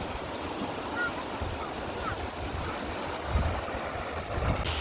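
Steady rushing of wind and water outdoors, with gusts of wind buffeting the microphone that grow stronger toward the end and a few faint high chirps early on.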